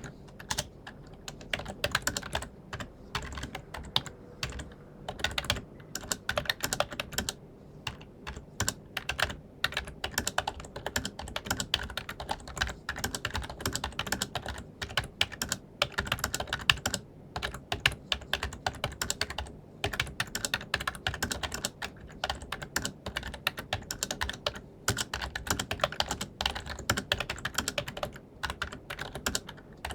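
Fast continuous typing on an ELECOM TK-FCM104BK wired membrane keyboard: a dense, irregular patter of key presses with a few short pauses. The keystrokes are fairly subdued, not a silent-type membrane but not loud.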